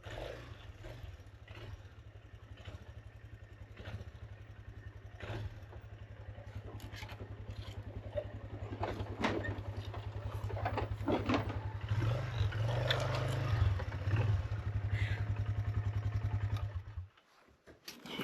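Four-wheeler (ATV) engine running with an even, fast pulse and rattling and knocking over it, getting louder for a couple of seconds past the middle, then shut off abruptly near the end.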